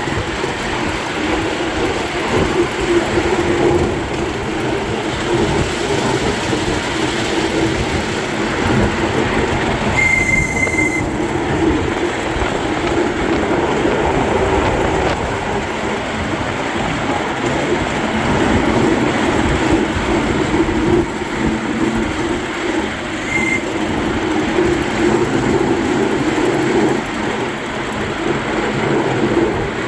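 Miniature railway train running on its track, wheels rumbling and clattering steadily. A short high steady tone sounds about ten seconds in, and a briefer one again a little past twenty seconds.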